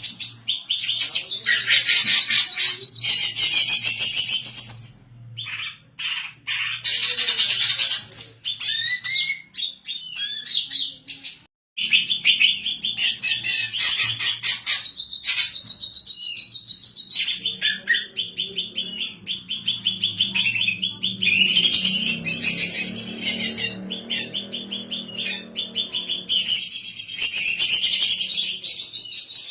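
Female greater green leafbird (cucak ijo) singing energetically: long runs of fast, chattering trills and whistles, broken by a couple of short pauses.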